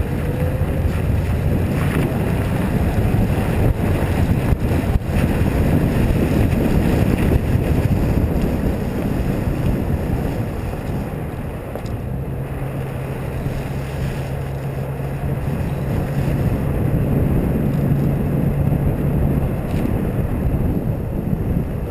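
Lincoln Town Car's V8 engine running while the car is driven on snow, under a dense rumble of wind and road noise; the engine note holds steady through the second half.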